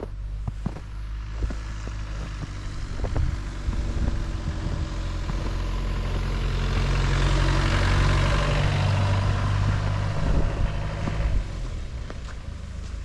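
A heavy road vehicle driving past, its low engine hum and rushing tyre noise swelling to a peak about eight seconds in, then fading away.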